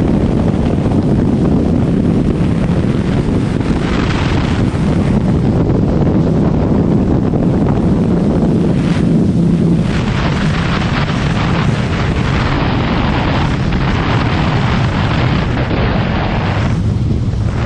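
Loud, steady wind rushing over the microphone of a riding motorcycle, with the bike's engine running underneath.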